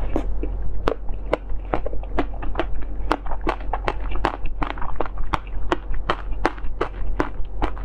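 Close-miked chewing of a soft jelly sweet with the mouth closed: sharp, wet mouth clicks about two or three times a second.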